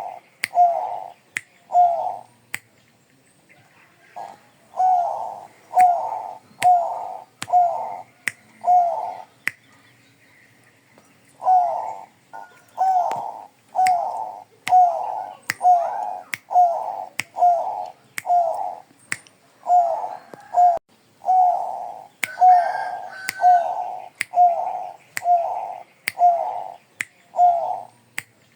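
Perkutut Bangkok (Thai-bred zebra dove) cooing in runs of short, quick notes, about one and a half a second, with pauses of a couple of seconds between runs. Sharp clicks sound between the notes.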